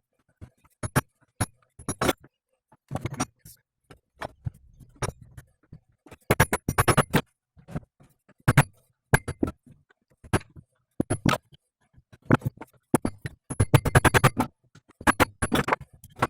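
Metal hand tools clinking and knocking on metal during work on a driveshaft universal joint: scattered single knocks and clicks, with two runs of rapid, evenly spaced clicking about six and thirteen seconds in.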